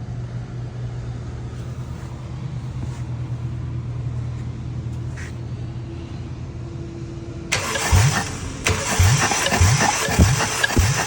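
A steady low hum, then about seven and a half seconds in a starter motor cranks the Honda F20B engine over with a regular chug from its compression strokes, as when turning it over for a compression test.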